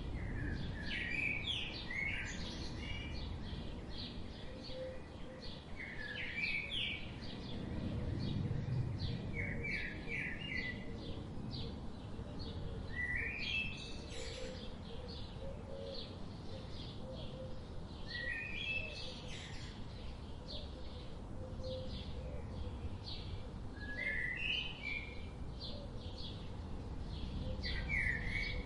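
Birds singing: one bird repeats a short phrase of a few quick notes every four to six seconds over a steady mix of rapid high chirps from other birds, with a low, steady background rumble underneath.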